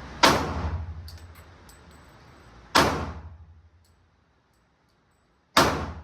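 Three pistol shots from a .40-calibre Glock, about two and a half seconds apart, each with an echoing tail, and a few faint ticks after the first shot.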